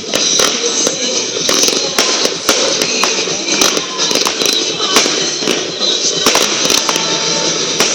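Fireworks display going off: a rapid, irregular string of sharp pops and bangs over continuous crackling, with music playing underneath.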